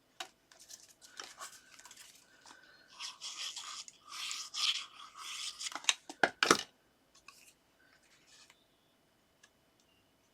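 Paper and card being handled and rubbed down as small pieces are stuck onto a card, a few seconds of rustling and rubbing, then a few sharp taps about six seconds in.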